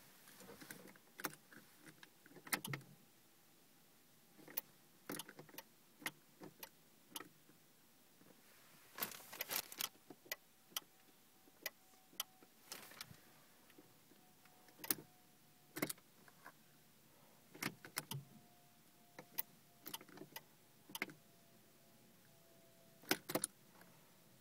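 Irregular sharp clicks and rattles in a Renault Clio that won't start, with no engine cranking or running. A faint steady tone comes in about nine seconds in and drifts slightly lower.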